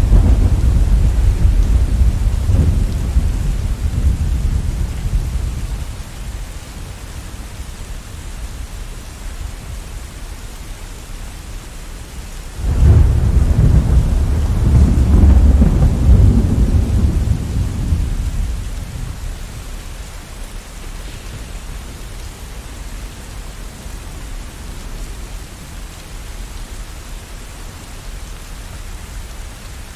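Steady rain with two rolls of thunder: one rumbling from the start and dying away over the first six seconds, and a second that cracks in suddenly about twelve seconds in and rolls on for several seconds before fading.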